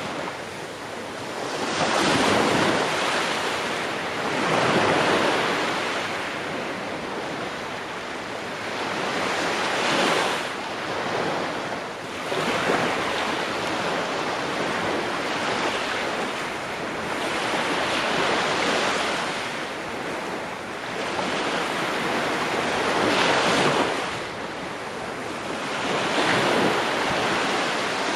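Ocean waves breaking on a shore in a steady wash of surf, swelling into louder breakers every few seconds.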